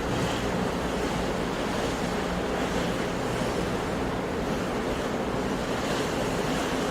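Ocean surf washing steadily, with wind noise.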